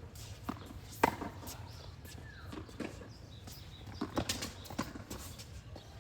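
Tennis rally: a series of sharp knocks from the racket striking the ball and the ball bouncing on the court, the loudest hit about a second in and a quick cluster of hits around four seconds in.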